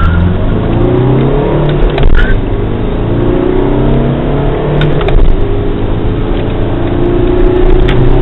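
Skoda Octavia 2.0 TDI 16V PD four-cylinder turbodiesel accelerating hard, its engine note rising in pitch through the gears, with breaks for gear changes about two and five seconds in.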